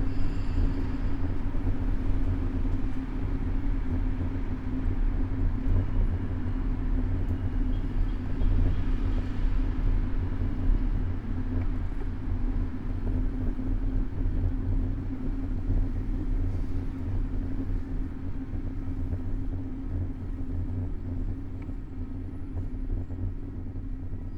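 City road traffic heard from a moving bicycle: a steady low rumble of car engines.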